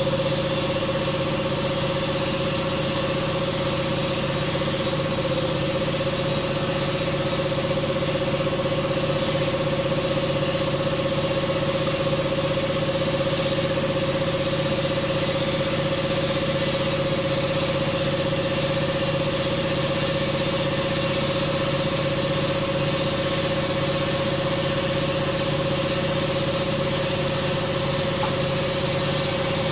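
Steady mechanical hum of a running motor: a constant mid-pitched tone over a low drone, unchanging throughout.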